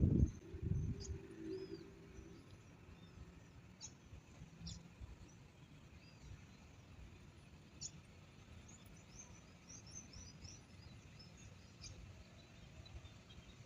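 Small birds chirping, with short high calls scattered throughout and a quick run of chirps about nine seconds in. Low rumbling bumps in the first second or so.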